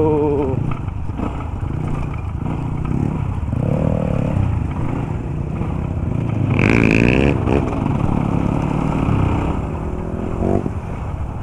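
Dirt bike on the move: the motorcycle engine running steadily under road and wind noise, with a brief wavering pitched sound about seven seconds in.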